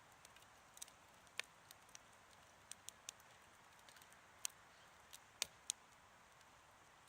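Wood campfire crackling: irregular sharp pops and snaps over a faint, soft hiss.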